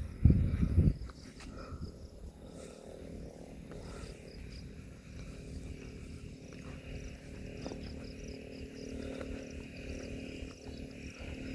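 Forest ambience: faint insects chirping in short repeated pulses and a steady high insect whine over a low rumble. It opens with a second of loud low thumps.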